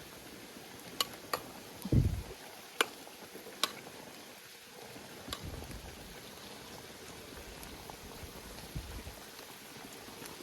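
A pot of food boiling steadily. Four sharp clicks fall in the first four seconds, and a dull thump comes about two seconds in.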